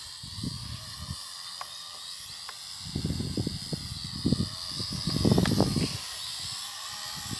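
Small drone's propellers whining steadily at a high pitch, the pitch wavering slightly, with wind buffeting the microphone in low rumbling gusts, heaviest from about three to six seconds in.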